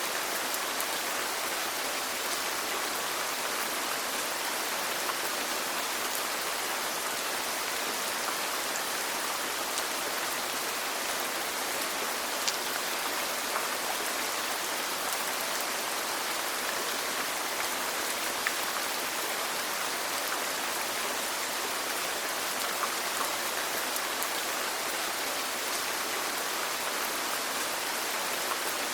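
Steady rain falling, an even hiss with a few louder single drops ticking out of it now and then.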